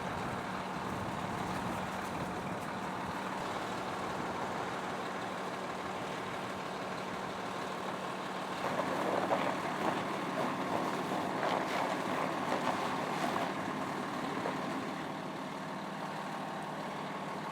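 Fire engine's engine idling steadily, with a louder, noisier stretch of several seconds past the middle before it settles back.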